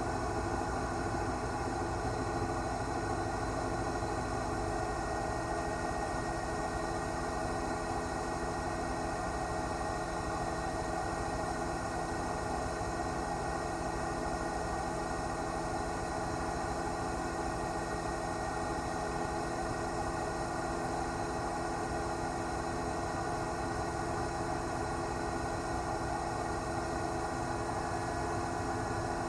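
News helicopter's engine and rotor noise, a steady, unchanging drone with several fixed tones.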